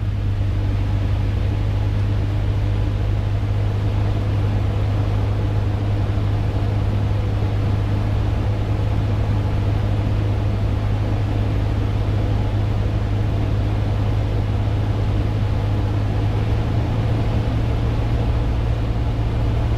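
Cessna 150's four-cylinder Continental O-200 engine and propeller droning steadily in flight, a constant low hum under a wash of wind noise.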